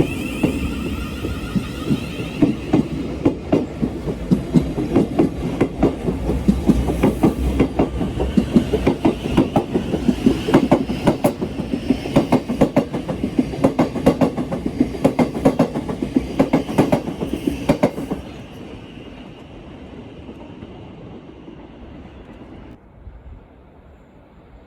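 Train passing close by, its wheels clicking rapidly over rail joints over a loud rumble. The clicking stops abruptly about eighteen seconds in as the train clears, leaving a fainter fading rumble.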